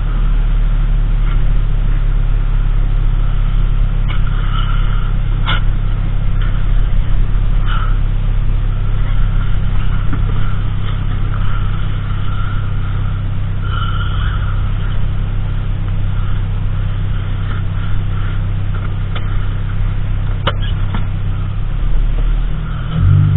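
A car running on the road: a steady low engine and road drone, with a few faint clicks.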